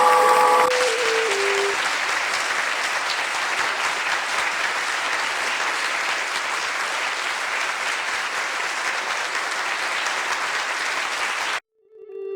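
A large audience applauding steadily, with a few held music notes stepping down in pitch over the first couple of seconds. The applause cuts off suddenly near the end.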